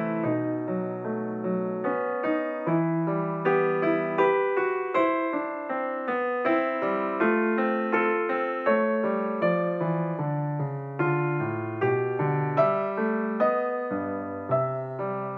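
Background piano music: a steady run of plucked-sounding electric piano notes, each fading after it is struck.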